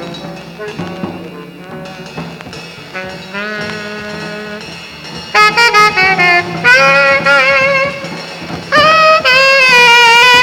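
Live free-jazz trio of tenor saxophone, double bass and drums. After a quieter first half, the tenor saxophone comes in loud about halfway through, holding long notes with a wide, wavering vibrato in several separate phrases.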